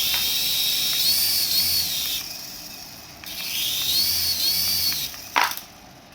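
Small electric motor of a remote-control toy whirring in two spells, each a high whine that rises and falls in pitch, with a short click near the end.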